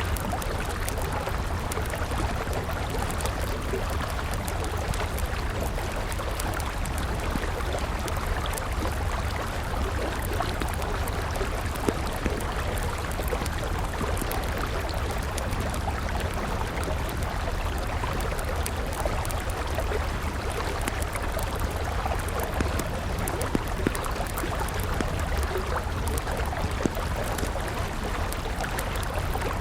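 A river flowing steadily, mixed with a wood campfire crackling, with scattered sharp pops from the fire.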